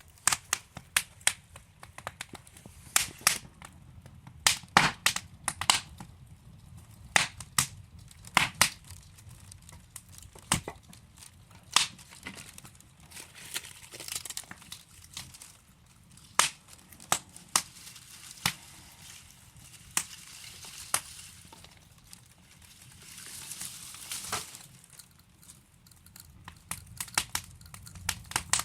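Wood fire burning in a fireplace, logs crackling with frequent irregular sharp pops over a soft hiss of flame that swells now and then.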